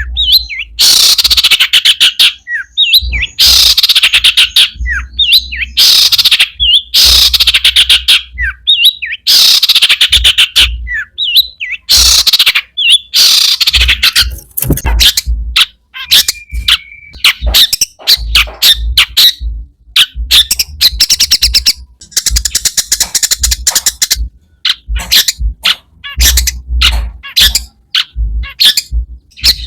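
Long-tailed shrike (cendet) singing loudly. Harsh, rasping bursts about a second long repeat with short gaps, then from about halfway through give way to fast runs of short chattering notes.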